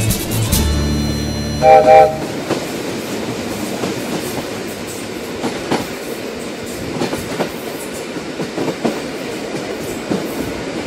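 A train horn sounds two short blasts, then the train rolls on with a steady rumble and the clickety-clack of wheels over rail joints.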